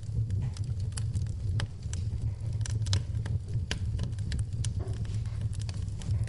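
Wood fire in a fireplace burning with a low, steady rumble and irregular sharp crackles and pops, several a second.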